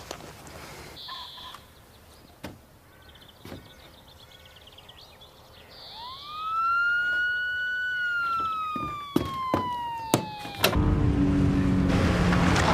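Police car siren giving one long wail that rises quickly, holds, then slowly falls in pitch, followed near the end by a louder rush of vehicle noise.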